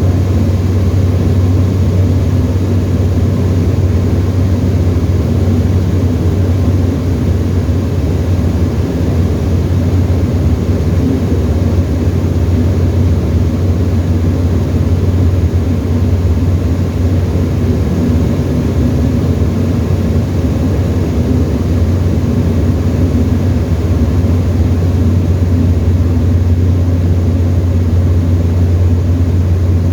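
Tecnam ultralight's piston engine and propeller running steadily in cruise, a loud, even, low drone heard from inside the cockpit.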